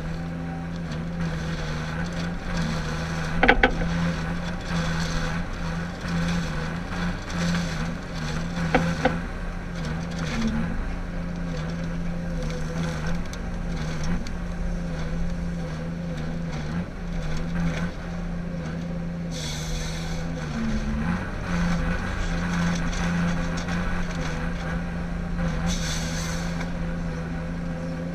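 Ponsse Ergo harvester's diesel engine running steadily under working load, with two sharp cracks in the first ten seconds and two short bursts of hiss in the second half.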